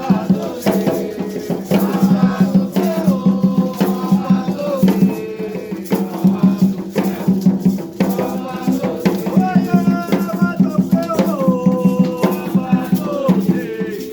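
Devotional chant for Xangô: voices singing a melodic line over rapid, steady shaking of rattles, with drums.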